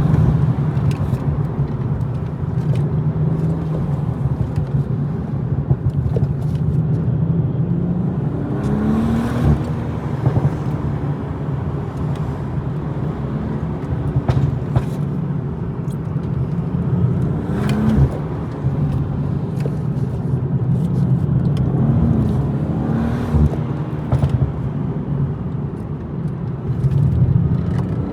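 BMW M240i's turbocharged 3.0-litre inline-six engine pulling hard on a twisty road, its pitch rising and falling several times as it revs through the gears, with short sharp clicks scattered throughout.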